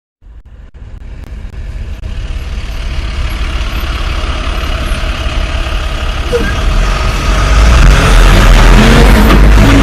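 Heavy trucks' diesel engines rumbling, fading in from silence and growing steadily louder as they come closer, loudest over the last couple of seconds.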